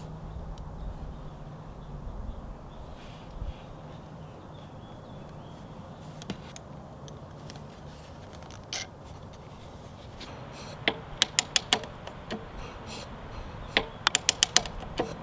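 Light handling noises, then a hand ratchet clicking in short quick runs of four or five clicks, starting about two-thirds of the way in and again near the end.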